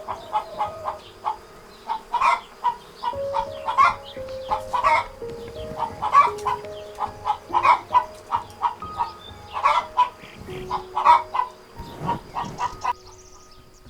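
Chickens clucking, with many short calls coming one after another, over soft background music of slow held notes.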